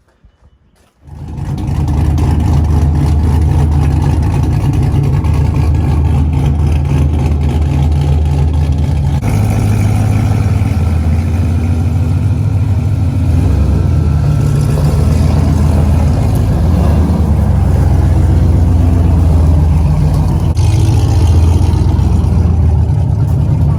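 A vehicle engine running loud and close, cutting in abruptly about a second in, its pitch stepping up and down a few times as it drives.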